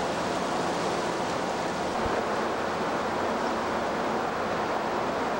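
Heavy storm rain and wind: a steady, even rushing noise, with a brief low bump about two seconds in.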